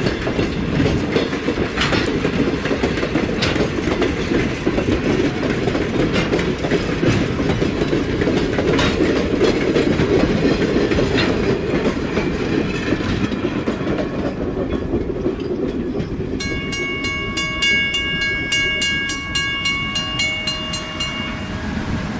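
Train cars rolling past close by: a heavy rumble with wheels clicking over rail joints, easing somewhat after about 13 seconds. About 16 seconds in, a steady ringing of several high tones with a rapid repeating tick sounds over it for about five seconds.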